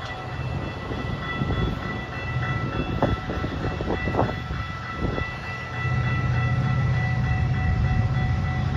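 Metra commuter train passing, with a few knocks about three to five seconds in and the low drone of its diesel locomotive growing louder about six seconds in.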